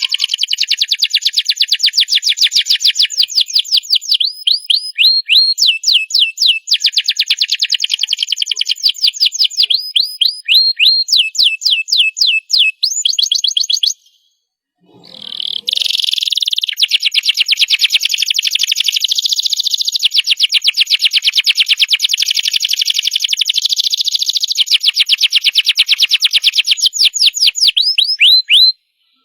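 Domestic canary singing: long, rapid trills of repeated high notes, switching to a different note pattern every second or two. About halfway through the song breaks off for a moment, then resumes in one long unbroken trill.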